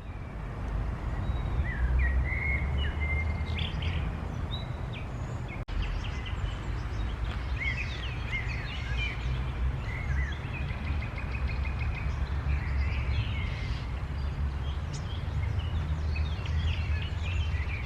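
Songbirds chirping and trilling in short, repeated phrases, over a steady low rumble.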